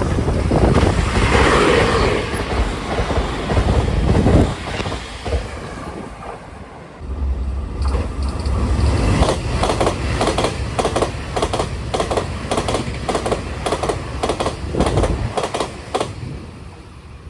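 Two Taiwan Railway express trains passing one after the other at about 127–128 km/h. The first goes by in a loud rush; after a short break the second passes with its wheels clacking over the rail joints in a fast, even run of clicks, then fades.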